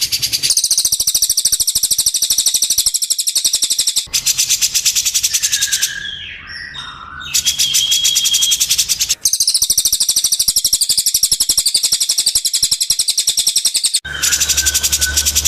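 Songbird song from a masteran (song-tutor) recording: long phrases of a high, buzzy trill of very fast repeated notes, broken by short pauses about 4, 9 and 14 seconds in. Around 6 to 7 seconds in the trill stops and a lower whistled call is heard.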